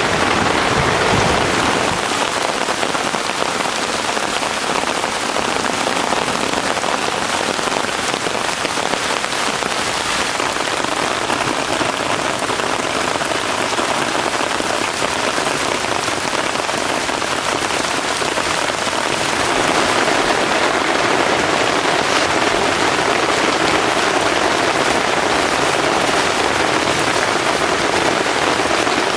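Heavy rain falling steadily, as a dense, even patter. It grows a little heavier about two-thirds of the way in.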